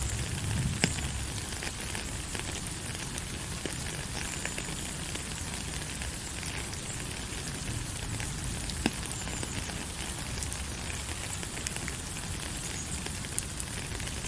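Steady rain falling, an even hiss with scattered sharper drop ticks, two of them standing out about a second in and about nine seconds in.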